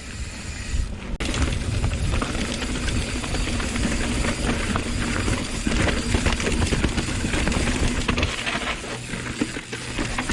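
Hardtail mountain bike rattling down a rocky, rooty descent: a dense, continuous clatter of knocks from tyres and the unsuspended rear end hitting rocks, with a brief break about a second in.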